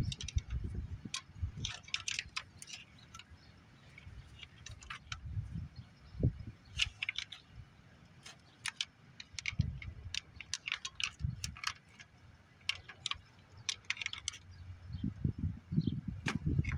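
Metal hand tools clinking and tapping against engine parts in irregular, scattered clicks, with a few dull knocks.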